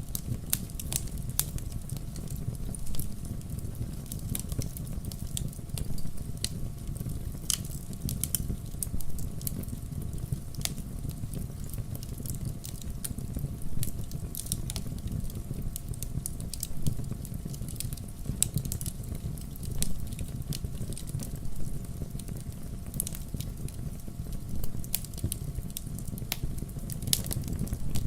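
Wood fire burning in a fireplace: a steady low rumble of flame with irregular sharp crackles and pops from the logs.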